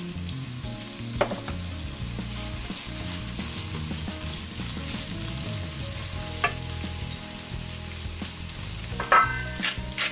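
Sliced onion and minced garlic sizzling in olive oil in a nonstick pot, stirred with a silicone spatula. A few clicks of the spatula against the pot, with the loudest cluster near the end.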